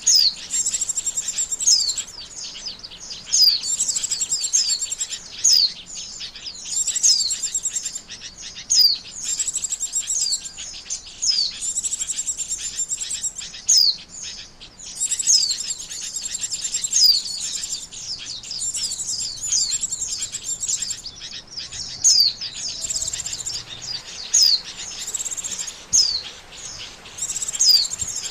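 White-eye (pleci) calling: rapid phrases of high chirping notes with quick downward slurs, each phrase a second or two long, repeated with short gaps. A lure call for attracting white-eyes.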